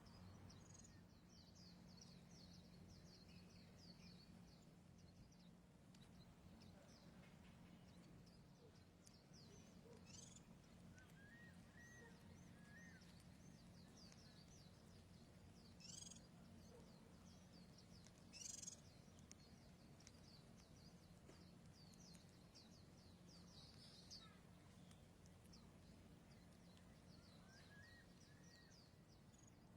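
White-eye chicks chirping, faint, rapid high thin cheeps repeating throughout, with a couple of louder sharp calls past the middle.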